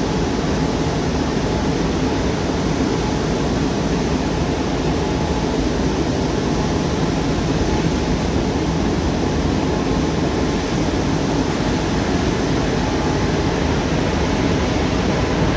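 Steady rushing noise of jet aircraft engines, even in level throughout.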